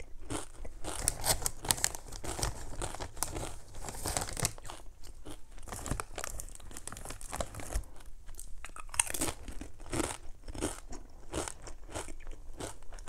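Close-miked crunching and chewing of crisp chips dipped in cheese dip, one crunchy bite after another.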